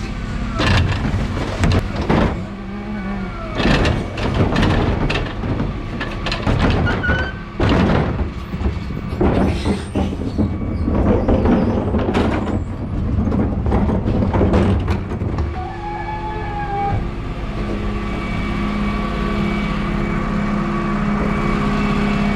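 Refuse truck emptying wheelie bins of paper and cardboard: a run of irregular bangs and clatters as bins are tipped on the electric bin lift. About two-thirds of the way through this gives way to the truck's steady running hum.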